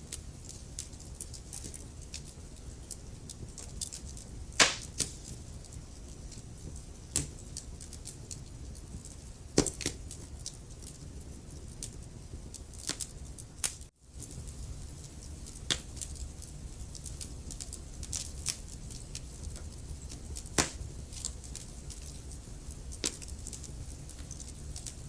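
Wood fire burning in a fireplace: irregular crackles and sharp pops from the burning logs over a steady low rumble of the flames. The sound drops out for a moment about halfway through.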